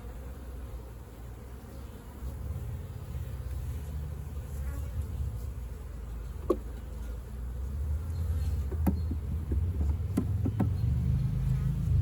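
Honeybees buzzing in a steady low drone around the hive, growing louder toward the end, with a few light clicks or knocks in the second half.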